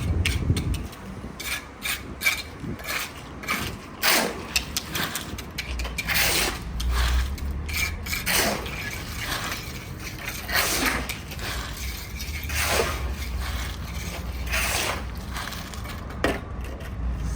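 Irregular clicking and knocking of hard parts being handled, with several longer scraping strokes about two seconds apart.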